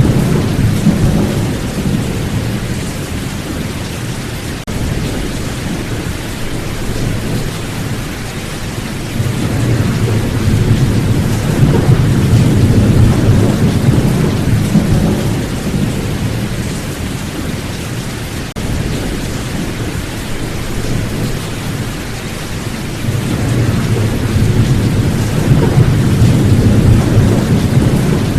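A thunderstorm: steady heavy rain, with long low rolls of thunder that swell up about a third of the way in and again near the end.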